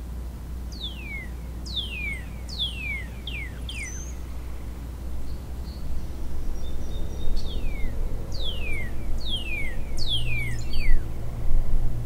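A songbird singing a series of clear whistled notes, each sliding steeply down in pitch. The notes come in two runs of about five, roughly one to two a second, with a pause of a few seconds between them, over a steady low hum.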